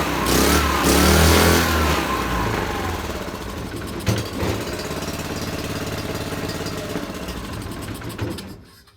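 Tecumseh 6.5 hp single-cylinder small engine running, revving up and down in the first two seconds and then running more steadily at a lower speed. A sharp knock comes about four seconds in, and near the end the engine winds down and stops.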